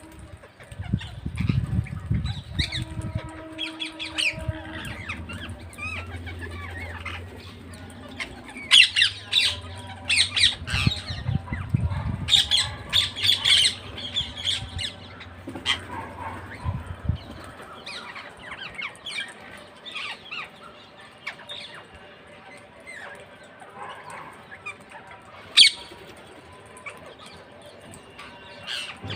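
Parrots squawking: clusters of sharp, harsh calls that are loudest and most frequent in the middle, thin out later, and end with one loud shriek near the end. A low rumble sits underneath for the first half.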